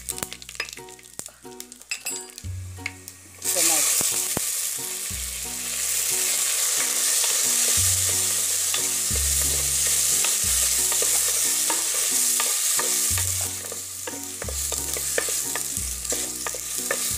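Tempering frying in hot gingelly oil and ghee in a clay pot: mustard seeds crackle and pop at first. About three and a half seconds in, more seasoning goes in and a loud sizzle starts, which runs on steadily with crackles as the pan is stirred.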